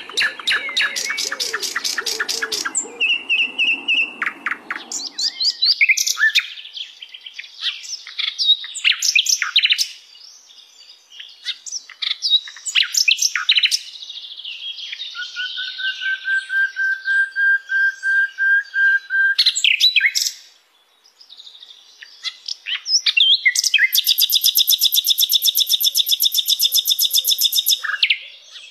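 Sikatan londo flycatcher singing a varied song of sharp chirps and quick phrases: a rapid rattle at the start, one long slightly rising whistle about halfway, and a long, very fast high trill near the end.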